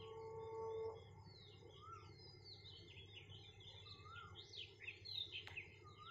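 Birds chirping in many quick calls, busier from about two seconds in. A steady ringing tone stops about a second in, and there is one sharp click near the end.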